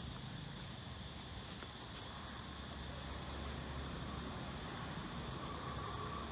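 Insects trilling steadily in woodland, a continuous high-pitched drone.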